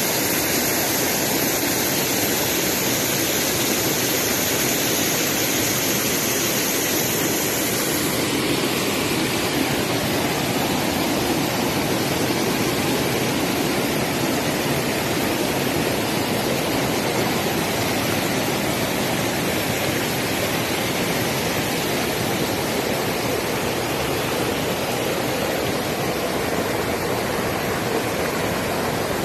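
Creek water rushing steadily over rocks. A fainter high hiss rides on top for about the first eight seconds, then stops.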